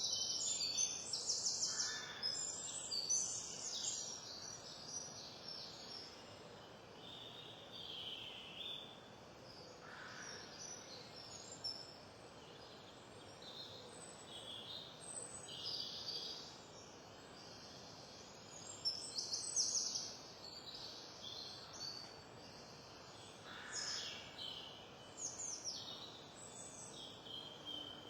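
Songbirds singing: short, high, varied song phrases with pauses of a second or two between them, over a steady background hiss.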